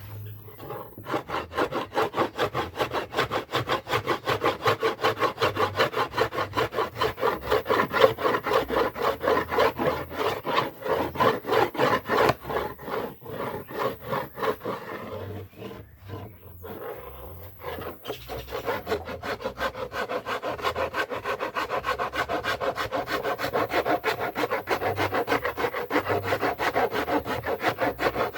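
Hand saw cutting through wood in quick, even back-and-forth strokes, about three a second. It breaks off briefly past the halfway point and then carries on a little quieter.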